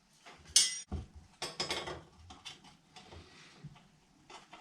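Metal parts of a home-made bike truing stand clanking and rattling as they are handled: a bright ringing clank about half a second in, then a run of knocks and rattles that thin out into small clicks.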